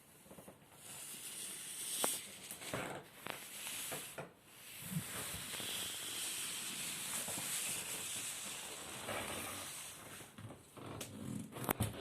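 Paper rustling and crinkling in swells, with light clicks and taps, more of them near the end.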